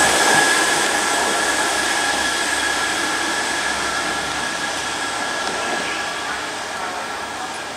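Class 158 diesel multiple unit pulling away, its engines running with a steady whine and fading steadily as it draws off.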